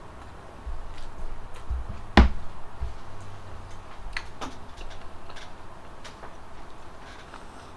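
Close-miked chewing of crunchy fried siomai: wet mouth sounds with one loud sharp crunch about two seconds in and a few fainter clicks after it.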